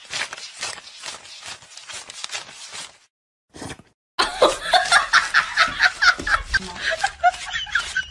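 Paper banknotes flicked rapidly one after another as they are counted by hand. About four seconds in, a person laughs in quick repeated bursts.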